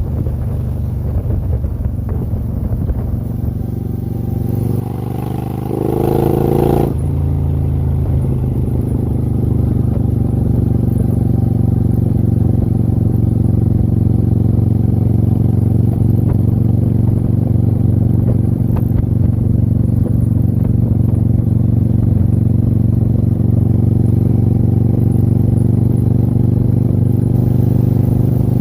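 Motorcycle engine running on the road under a haze of wind noise. About five seconds in its pitch climbs for a couple of seconds and then breaks off sharply; after that it settles into a steady, slightly louder cruising drone.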